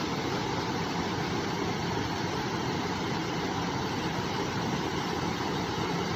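River water flowing, a steady even rush with no change.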